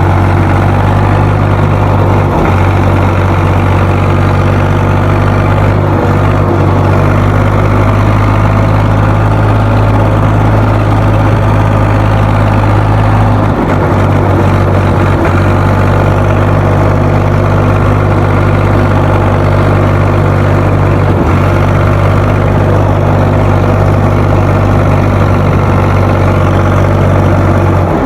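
Ford 4600 tractor's three-cylinder engine running steadily at full throttle, a loud, even drone with no change in speed.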